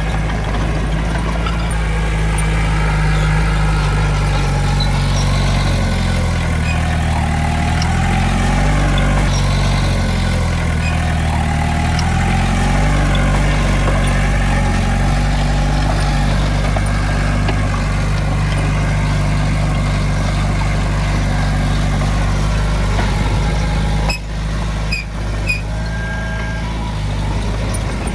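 Diesel engine of heavy earthmoving equipment running, its pitch rising and falling with load during the first half. High squeaks ride over it, and the level briefly dips near the end.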